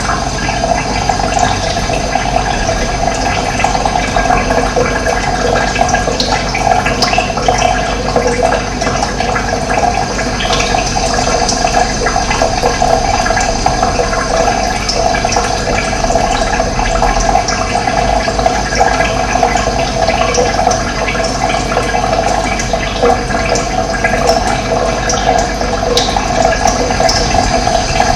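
Running water, a steady even rush with no breaks.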